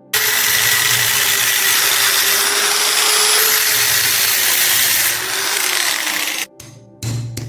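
Power tool grinding rust off a steel knife blade, running steadily for about six and a half seconds and then stopping suddenly. A few sharp knocks follow near the end.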